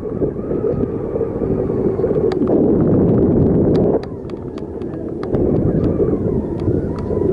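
Wind buffeting the microphone of a camera on a moving bicycle: a loud, deep rumble that surges and eases, with scattered sharp clicks and rattles from the bike.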